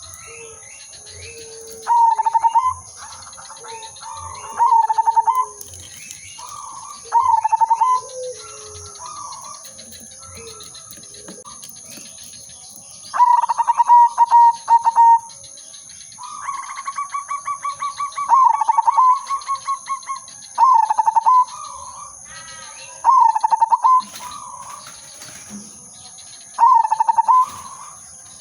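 Zebra dove (perkutut) singing: short, rapid staccato coo phrases repeated every two to three seconds, with one longer trilled phrase about two-thirds of the way through. Faint chirps of other small birds sit underneath.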